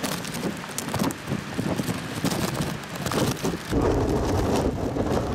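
Strong sea wind buffeting the microphone, a rough, uneven rushing noise that turns heavier and lower about three-quarters of the way through.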